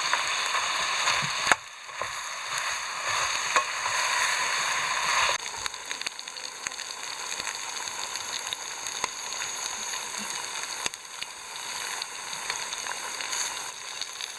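Food sizzling and frying in a pan, a steady hiss dotted with sharp little pops and clicks. About five seconds in the sizzle drops noticeably and carries on more quietly.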